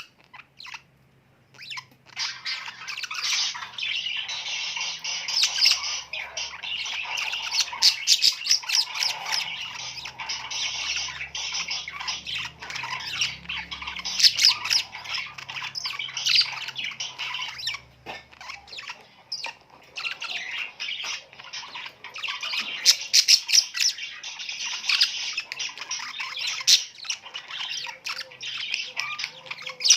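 A flock of budgerigars chattering continuously, a dense mix of warbling, chirps and squawks. It is the budgie breeding chatter that is played to pairs to encourage them to mate. It starts about two seconds in, after a brief silence.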